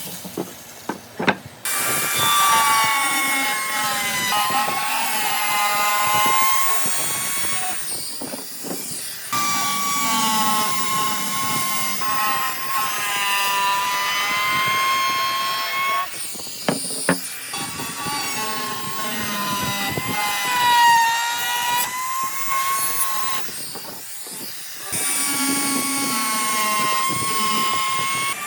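Handheld electric power tool working wood: a steady motor whine whose pitch sags and recovers as the tool bites. It breaks off briefly three times.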